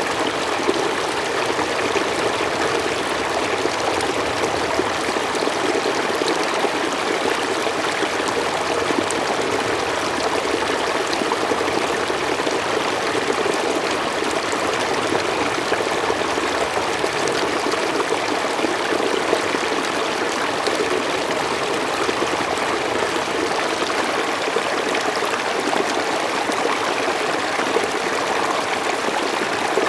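Mountain stream flowing smoothly over rocks: a steady, even rush of water with no change in level.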